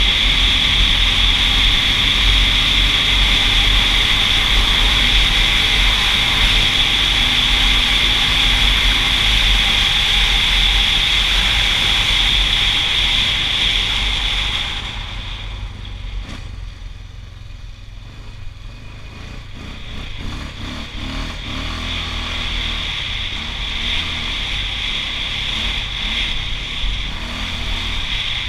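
Honda TRX 680 Rincon ATV's single-cylinder engine running under way. The sound eases off about halfway through, then picks up again.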